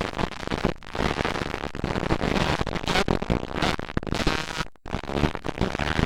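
Motocross dirt bikes racing, their engines revving unevenly and loudly with a crackling, choppy sound.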